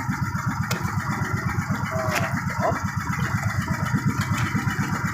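A small boat engine running steadily with a fast, even low chug.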